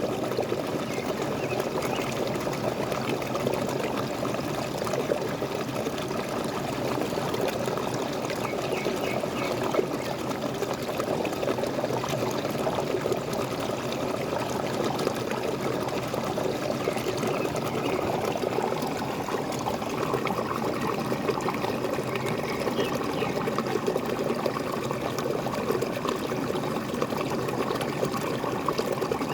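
Small waterfall splashing and gurgling steadily, a continuous churning rush of falling water.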